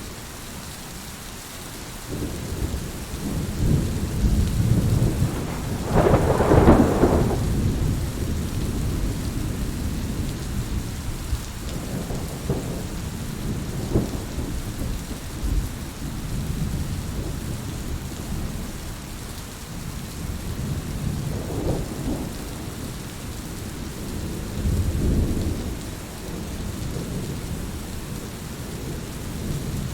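Heavy rain falling steadily with rolling thunder: a loud rumble about six seconds in and several fainter rumbles through the rest.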